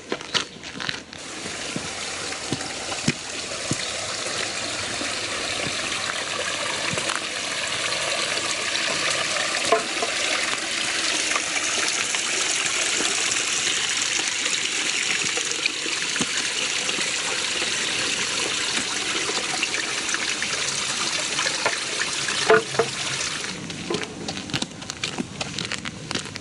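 Running water, a steady rushing that swells over the first few seconds and fades near the end.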